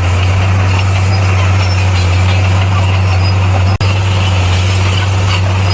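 Heavy diesel engine of earthmoving equipment running steadily with a constant low drone, broken by a momentary gap about two-thirds of the way through.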